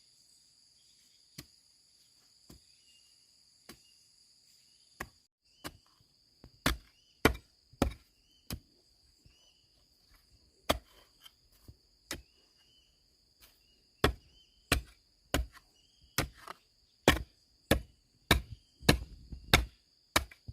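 A hand tool striking something again and again: light blows about once a second at first, then heavier, quicker blows from about six seconds in. A steady high insect drone runs underneath.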